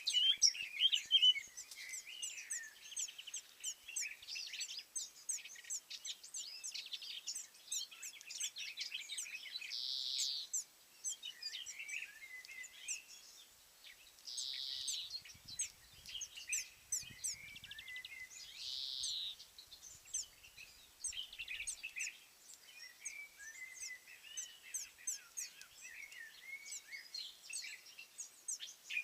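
Several small songbirds singing and calling at once: a steady stream of quick, high chirps and twitters, with a longer buzzy note about every four to five seconds, around ten, fifteen and nineteen seconds in.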